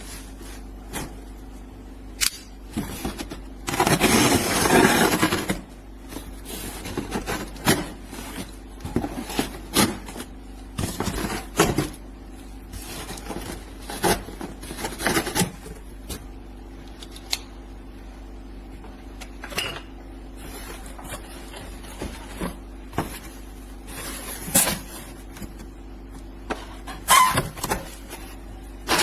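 Irregular knocks, clicks and scrapes of a plastic remote-control toy truck, with a louder scraping rush lasting about a second and a half about four seconds in.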